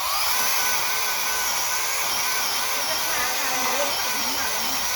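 Battery-powered handheld mini chainsaw running steadily, its electric motor and spinning chain giving a high whine.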